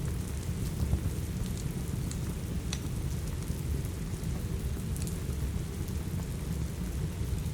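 Steady rain with a deep, constant low rumble, and a few sharp pops from a crackling wood fire, the clearest about a third of the way in and again past halfway.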